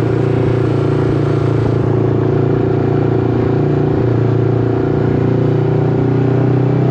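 A vehicle engine running at a steady speed, with an even, constant drone.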